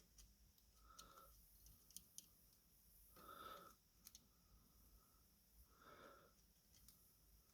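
Near silence: a few faint whistly nasal breaths about two and a half seconds apart, with a few light clicks.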